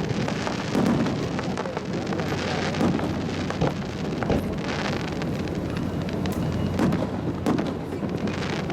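Fireworks going off: a run of low booms every second or two amid continuous crackling.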